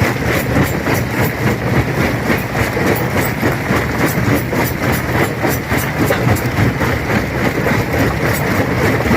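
Stone crusher running and crushing rock: a steady, loud machine rumble with a constant, irregular clatter of stones cracking and knocking.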